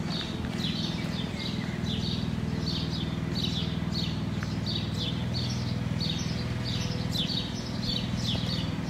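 A small bird calling over and over, a short high chirp about three times a second, over a steady low rumble.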